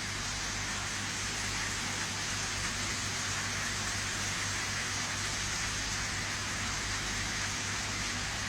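Thunderstorm rain falling steadily in an even, unbroken hiss.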